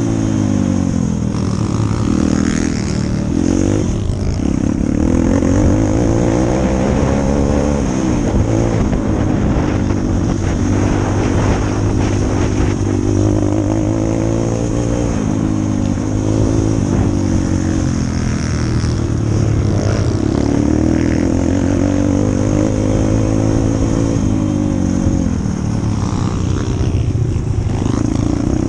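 140cc pit bike's single-cylinder four-stroke engine being ridden, its revs climbing and dropping over and over as it accelerates, changes gear and eases off.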